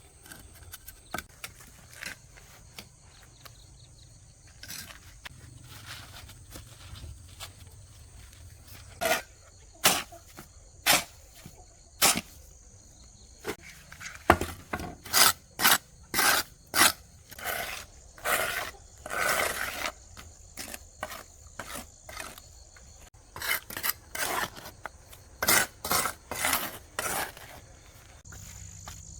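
Irregular series of short scraping or rasping strokes: single strokes at first, then quicker runs of several in a row. A steady high insect drone, like crickets, runs underneath.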